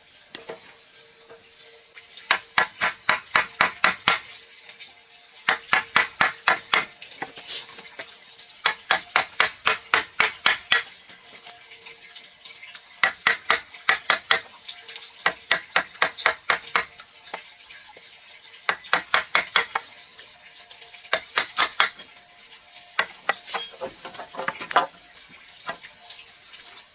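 Hammer blows in quick runs of several strikes, about five a second, with short pauses between runs, as in driving nails into wood. A steady high insect drone carries on behind.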